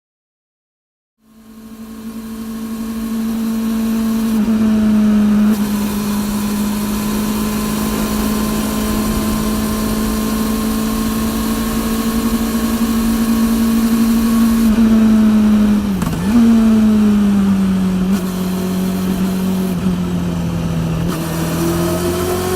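Honda CB400 NC42 inline-four running through a TSR E02 slip-on exhaust while riding at fairly steady throttle. The sound fades in after about a second of silence; the engine note sags slowly, dips sharply and recovers about sixteen seconds in, and starts rising near the end.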